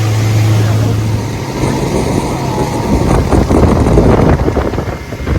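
Vehicle on the move: a steady low hum that gives way about a second in to rougher, irregular rumbling and rattling, loudest near the middle.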